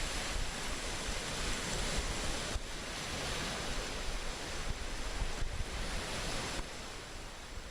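Steady rushing noise with a heavy low rumble, like wind or surf, changing abruptly a few times.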